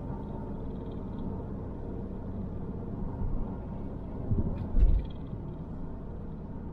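Car driving slowly, heard from inside the cabin: a steady low rumble of engine and tyres on the road, with two short low thumps about four and a half to five seconds in, typical of the car going over a bump.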